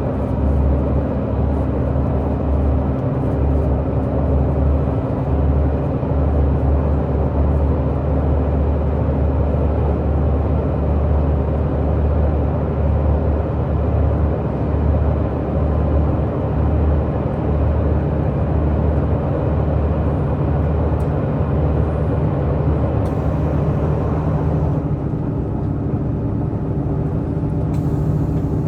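Diesel multiple unit (Tze-Chiang DMU) running at speed: its diesel engine drones steadily under wheel-on-rail rumble. About 25 seconds in, the engine note shifts and the rushing noise above it eases.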